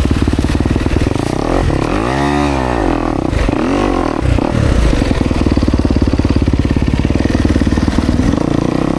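Dirt bike engines running, one revved up and dropped back twice, about two and four seconds in.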